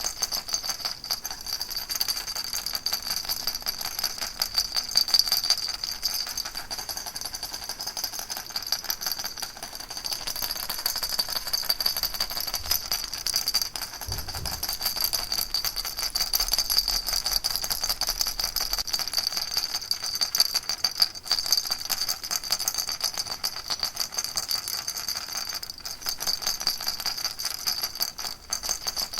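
Baby rattle shaken steadily, a dense, even rattling that keeps up without pause.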